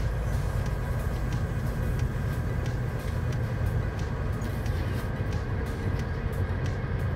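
Steady low rumble of a passenger train running, heard from inside the carriage, with scattered faint clicks.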